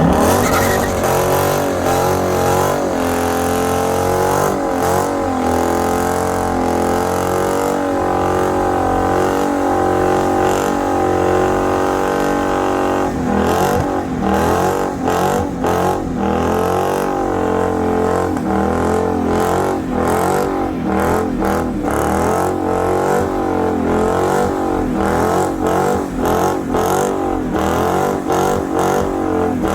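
Car engine held at high revs during a burnout, its pitch wavering. About halfway through it starts stuttering rapidly, the revs cutting in and out.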